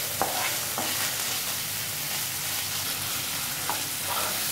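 Chopped onion with ginger-garlic paste and chilli powder sizzling in hot oil in a nonstick frying pan. It is being stirred with a spatula that scrapes and taps against the pan a few times.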